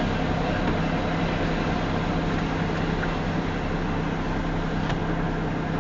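Union Pacific freight train passing slowly: a steady rumble with a constant low drone.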